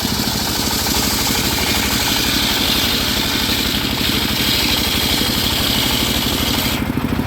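Engine-driven homemade circular sawmill running, its engine beating steadily while the blade cuts through teak with a high hiss that stops shortly before the end.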